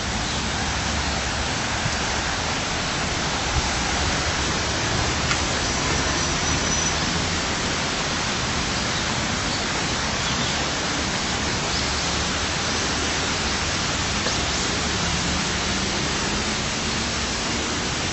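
Steady rush of flowing water in a garden stream or waterfall, an even hiss with no breaks.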